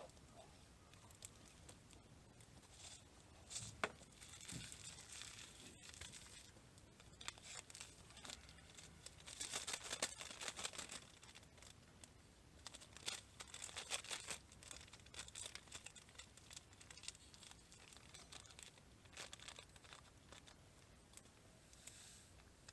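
Faint crinkling and rustling in irregular bursts, heaviest about halfway through, with a few sharp ticks.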